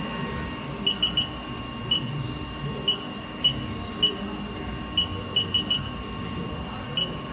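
Haas CL-1 CNC lathe spindle running at a steady speed of about 3,000 RPM, giving a steady high whine, with about a dozen short electronic beeps from the control panel, some single and some in quick runs of three.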